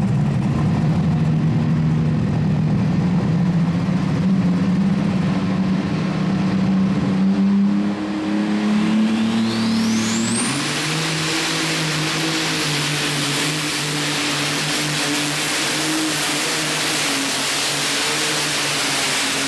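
Competition pulling tractor's engine running hard and steady. About nine seconds in, a high whine rises steeply and then holds, while the engine note shifts and the noise grows.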